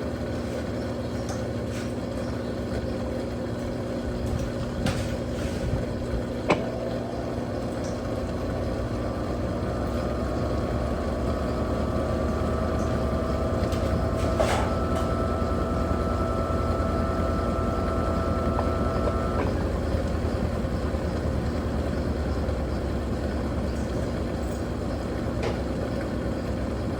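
Electrolux Turbo Capacidade Premium 15 kg top-loading washing machine running with a steady low hum. About six seconds in, a whine starts and slowly rises in pitch, then cuts off near twenty seconds. A few short clicks are heard.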